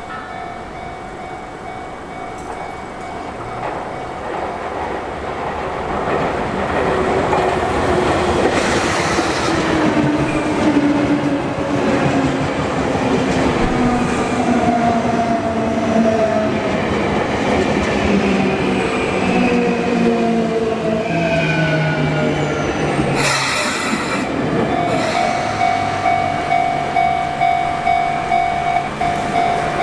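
Sotetsu Line electric train slowing past a level crossing, its motor whine falling in pitch as it brakes, over wheel noise on the rails. A brief loud blast comes about two-thirds of the way through, and the crossing warning bell rings throughout, pulsing about twice a second near the end.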